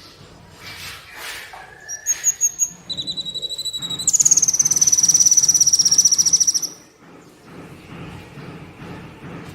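A small songbird sold as a 'kolibri' (sunbird) singing: scattered high chirps, then a rapid pulsed trill that grows loud about four seconds in, holds for nearly three seconds and stops sharply.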